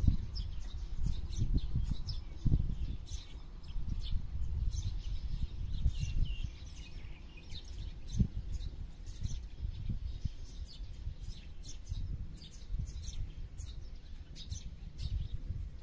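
Many small birds chirping and calling in quick short notes, scattered throughout, over a steady low rumble.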